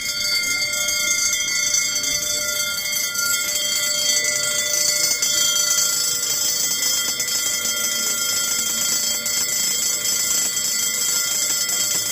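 Level crossing warning bell ringing steadily and high-pitched, without a break.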